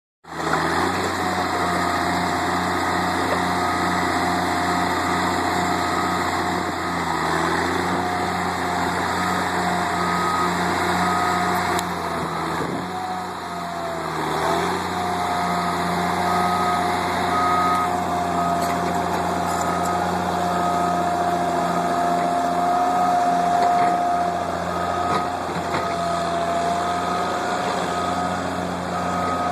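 Heavy earthmoving machine's engine running steadily under load with a steady whine. From about halfway through, a reversing alarm beeps about once a second as it backs up.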